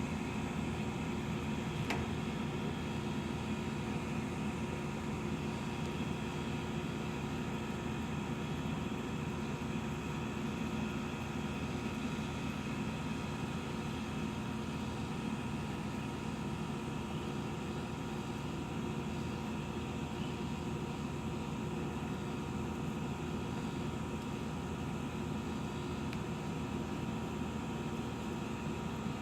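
A steady mechanical hum with a few constant tones, unchanging throughout, and a faint click about two seconds in.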